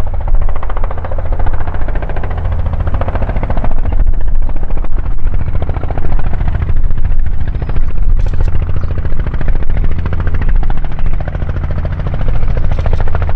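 Robinson R44 helicopter running close by, its two-blade main rotor beating rapidly and steadily over the deep drone of its engine.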